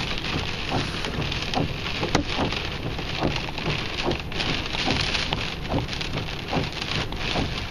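Rain in a windstorm: a steady rushing hiss with many small scattered drop hits.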